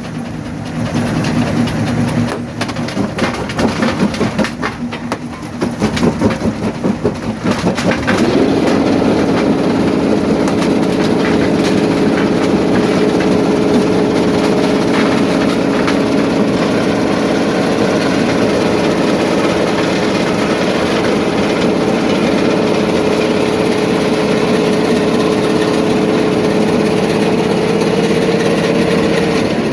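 Quarry jaw crusher at work: irregular knocking and crunching of rock for the first several seconds, then the machinery's steady engine drone steps up in pitch about eight seconds in and holds, falling away near the end.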